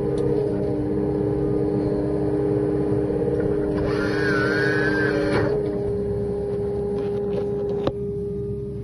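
Hydraulic chainsaw kit and its driving machine running with a steady hum. For about a second and a half around the middle a higher, wavering whine joins in, and near the end there is a sharp click, after which it runs a little quieter.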